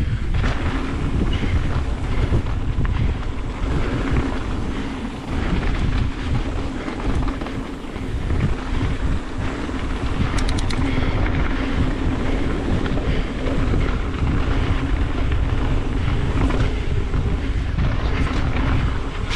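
Wind buffeting the microphone over the rumble and rattle of a mountain bike descending a rough downhill trail at speed.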